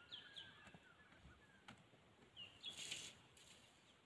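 Near silence with faint bird calls: a few short, falling chirps and a thin wavering whistle, plus a brief faint rustle near the end.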